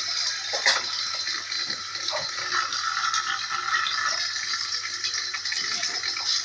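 Dishes being washed by hand at a kitchen sink: tap water running steadily while plates and utensils clatter against each other, with one sharper knock about a second in.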